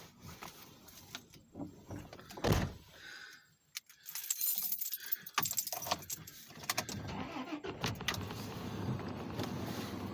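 Keys jangling amid handling rustles and clicks, with one loud knock about two and a half seconds in. A steady rushing noise sets in over the last couple of seconds.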